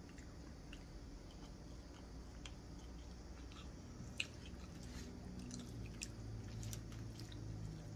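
A person chewing food with the mouth close to the microphone: soft wet mouth clicks, more frequent in the second half, with one sharper click a little past halfway.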